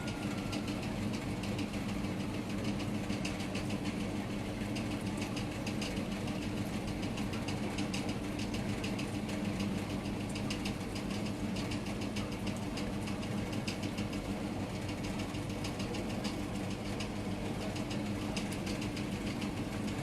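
Rain falling in a steady patter of fine drops, over a continuous low mechanical hum like an idling engine.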